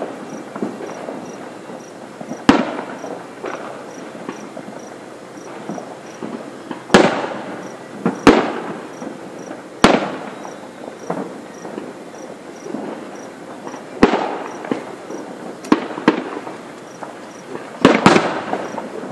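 Aerial fireworks shells bursting overhead: about seven sharp booms, a second to several seconds apart, some trailing off in crackle and echo.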